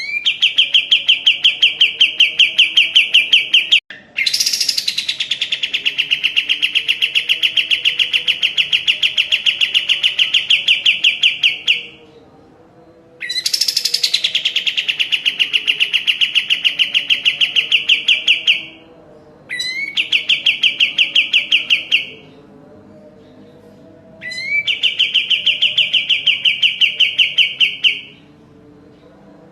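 Kapas tembak singing in long, fast, even trills of rapidly repeated notes, five bouts of several seconds each with short pauses between them. Some bouts open with a high note that slides down into the trill.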